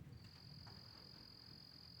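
Faint insect, cricket-like, trilling on one steady high pitch, over a faint low rumble of distant thunder.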